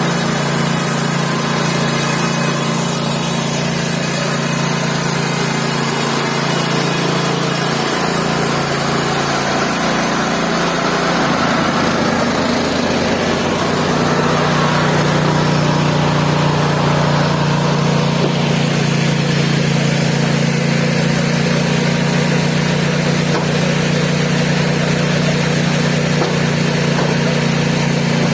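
Mobile band sawmill's engine running steadily. A high hiss heard over it stops about eleven seconds in, and the engine note shifts and then settles at a steady pitch.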